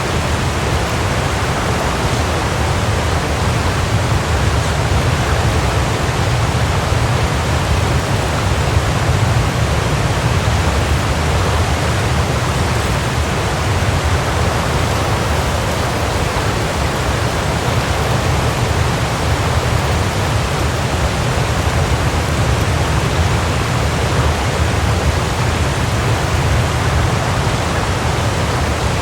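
Waterfall: a steady, unbroken rush of falling water, with a deep low rumble under the hiss.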